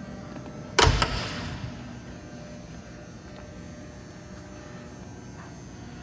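Two sharp knocks in quick succession about a second in, fading out over the next half second or so, over a steady low hum.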